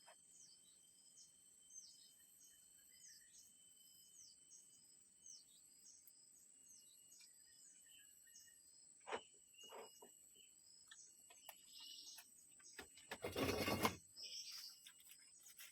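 Forest ambience: a steady high-pitched insect drone with a run of short, falling bird chirps repeating every half second or so. A few sharp clicks come past the middle, and a brief loud rustling noise comes near the end.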